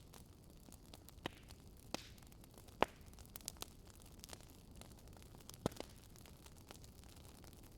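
Wood fire crackling: scattered sharp pops over a soft steady hiss, the loudest pop a little under three seconds in.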